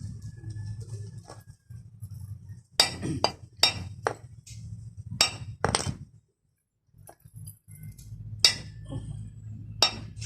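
Sharp metallic clinks and taps, about eight of them scattered through, from hand tools and metal parts of a car's manual window regulator being worked on, over a low steady hum.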